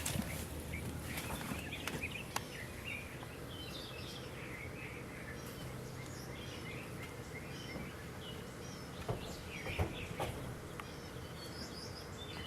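Many birds chirping with short, repeated calls, over a steady low background rumble, with two sharp knocks about three-quarters of the way through.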